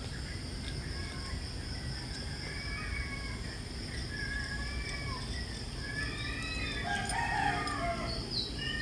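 A rooster crowing, with birds chirping, over a steady high-pitched hum.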